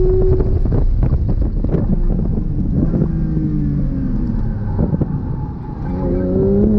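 Porsche 992 GT3 RS's 4.0-litre flat-six at speed on track. Its note holds high, falls over several seconds as the car slows, with a few short knocks along the way, then rises again near the end as it accelerates.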